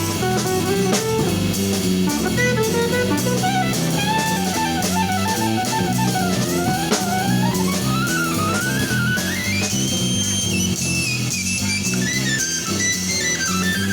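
Live jazz-fusion band playing an instrumental passage: drum kit, electric bass and guitar under a fast lead melody. The lead dips, climbs in quick runs to a high held note about ten seconds in, then steps back down.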